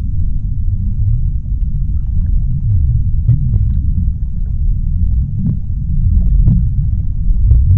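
Underwater ocean ambience: a deep, steady rumble with faint scattered clicks and pops over it.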